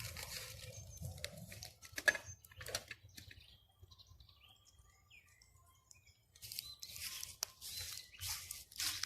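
Irregular crunching and rustling noises with sharp clicks, strongest in the first two seconds and again from about six seconds in. Faint short bird chirps come through in the quieter stretch between.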